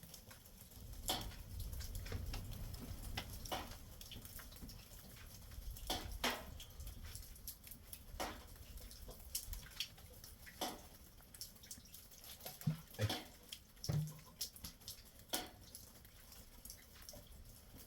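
Irregular small clicks and knocks, about a dozen, over a faint low rumble.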